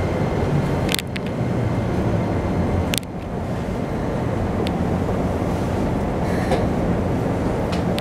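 Keikyu New 1000 series commuter train heard from inside the car, running and slowing on the approach to a station stop: a steady rumble of wheels on rail, with two sharp clicks about one and three seconds in.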